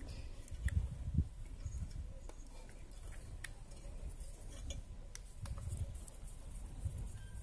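Scattered light clicks and clinks with irregular low bumps: hands handling tools and wiring during work on a welder.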